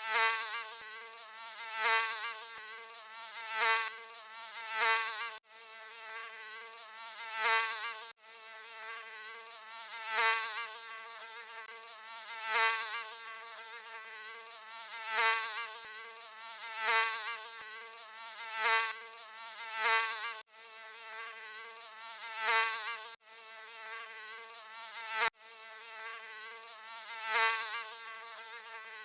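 Mosquito wing whine: a steady, high-pitched buzz that swells louder and fades again every couple of seconds, as if the mosquito is flying close past the ear. The buzz breaks off abruptly a few times, for an instant each.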